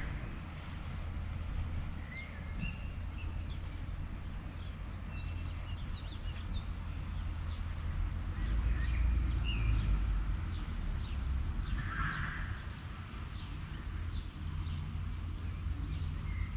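Small birds chirping and singing in quick, short notes, over a steady low rumble.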